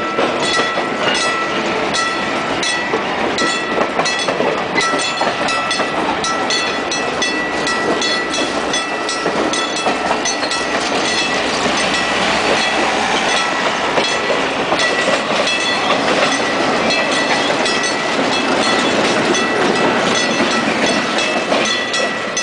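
A train rolling past, its cars clicking over the rail joints in a steady rhythm, with a steady ringing tone above.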